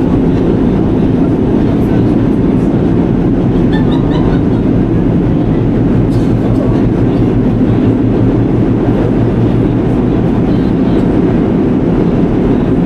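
New York City subway train running along the track: a steady, loud rumble with a low hum and a few light clicks.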